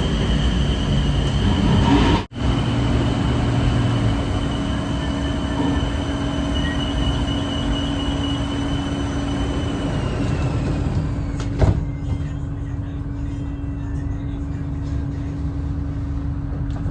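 Skytrain EMU-B1 electric train running: a steady rumble with a high motor whine that glides down about ten seconds in, then a sharp click. The audio drops out briefly about two seconds in.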